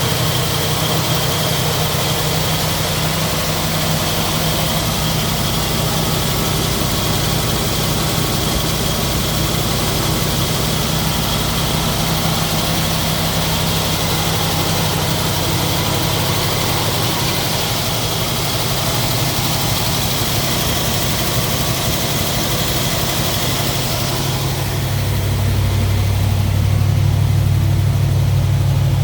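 1967 Ford Mustang engine idling steadily, just started after sitting for weeks. About 25 seconds in, its low rumble becomes louder and deeper.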